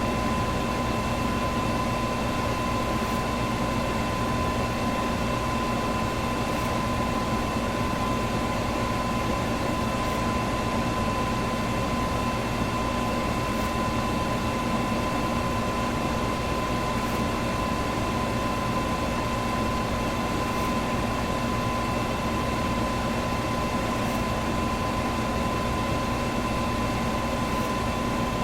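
Electric fan running steadily: an even whooshing rush of air with a constant high motor hum. A faint tick comes about every three and a half seconds.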